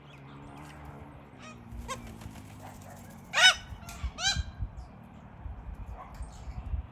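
Corellas calling from a flock, with two loud arched call notes in the middle and fainter calls around them.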